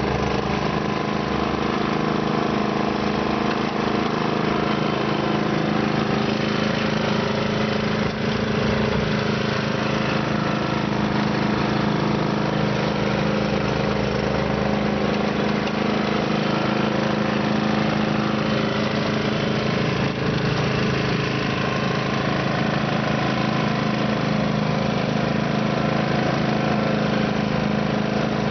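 Simplicity snow blower's small engine running steadily under load as it clears deep snow.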